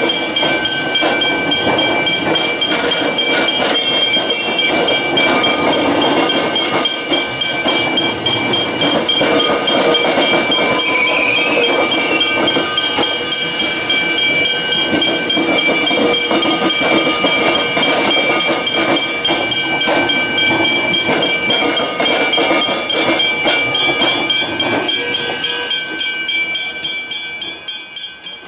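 Metro Trains X'Trapolis 100 electric suburban train passing slowly over the level crossing and tram square diamond, wheels clattering over the rail crossing, with the crossing bells ringing steadily over it. The sound fades near the end as the last car clears the crossing.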